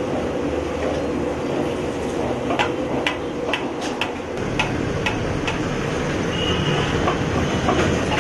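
Sharp metallic clinks, about eight over a few seconds, over a steady noisy background: a metal utensil striking a frying pan at a street-food stall.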